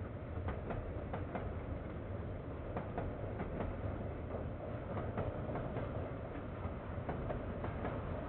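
KiwiRail train rolling past: a steady low rumble with the wheels clicking over rail joints, about one or two clicks a second.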